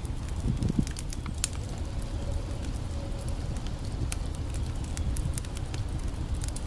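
Campfire crackling, with sharp irregular pops and snaps, over the steady low rush of a creek.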